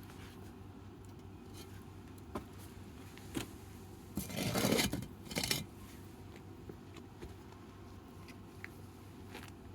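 Wood fire crackling with a few sharp pops, and a short louder clatter about four to five seconds in.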